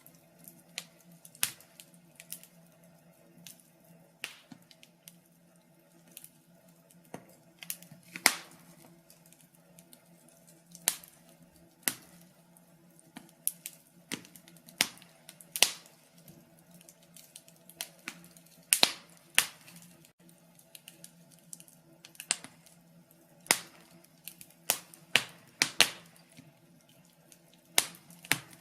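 Wood fire crackling, with sharp irregular pops, one or two a second, some much louder than others, over a faint steady low hum.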